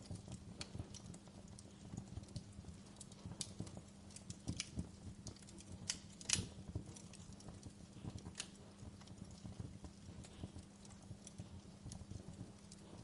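Wood fire crackling in a fireplace: irregular small pops and snaps, with one louder pop a little past the middle, over a low steady hum.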